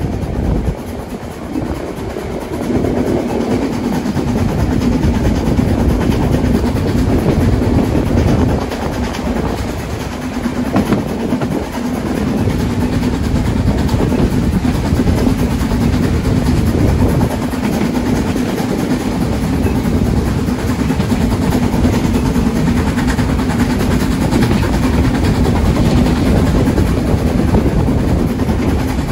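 Train running on rails: a steady rumble of wheels on track with a constant low hum.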